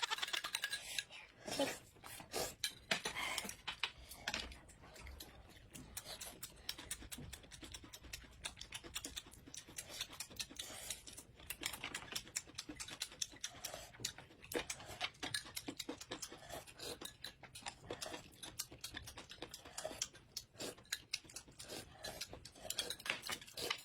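Close-miked eating: dense, irregular chewing and crunching clicks.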